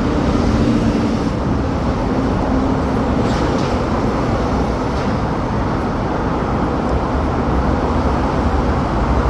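MTR electric train running through the station, a steady loud rumble with a low motor hum that fades after about two seconds.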